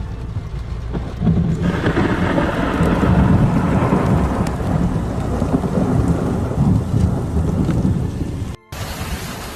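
Long rolling thunder over heavy rain: the rumble swells about a second and a half in, then slowly dies away. Near the end the sound cuts abruptly to steady rain hiss.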